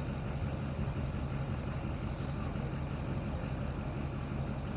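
Truck engine idling steadily with a low, even pitch.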